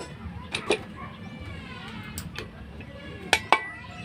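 A few sharp metallic clicks and clinks, spaced irregularly, as Honda XR150 transmission gears and shafts are handled and set into the crankcase. Faint background voices underneath.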